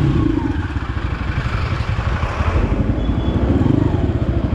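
Crossfire RM250 dirt bike engine running at low revs with an even, rapid pulsing, the bike rolling slowly on a dirt lane.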